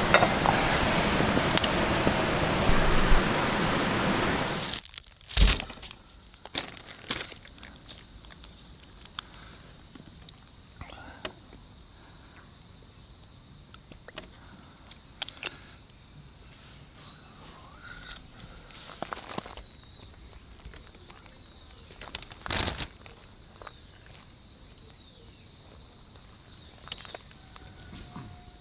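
A dense steady hiss for the first few seconds, cut off by a sharp knock; then insects chirring steadily in a high, pulsing trill, with scattered faint clicks and crackles.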